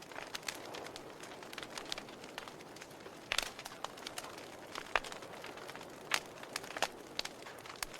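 Campfire crackling: irregular sharp pops and snaps of burning wood over a soft steady hiss, with a few louder pops about three and a half, five and six seconds in.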